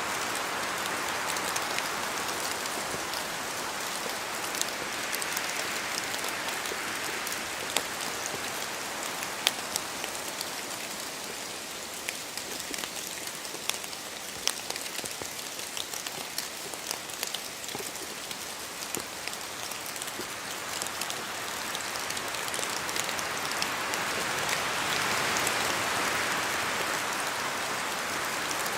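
Steady rain in a forest, with many sharp ticks of drops falling from the trees. Wind swells at the start, eases off in the middle and builds again near the end.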